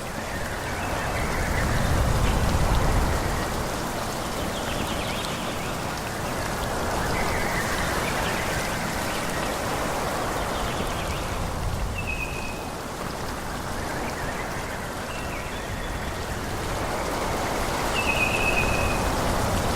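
Wind blowing through forest trees, a steady rushing hiss that swells into gusts and eases off again. A few short, high chirps stand out, about twelve seconds in and again near the end.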